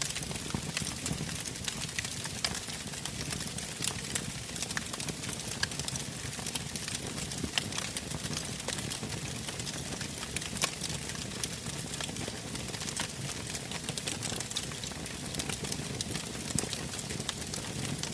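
Campfire burning, the wood crackling with many small sharp pops over a steady low rush of the flames.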